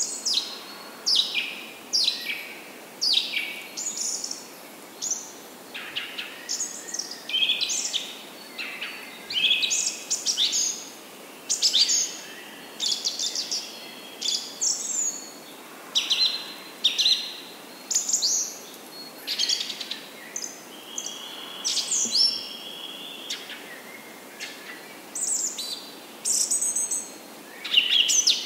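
Small birds chirping: short, high, downward-sweeping chirps coming about once a second, some overlapping at different pitches.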